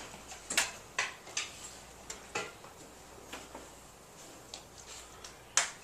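A scattering of short, irregular knocks and clicks, about nine in all, with the loudest about half a second in and near the end.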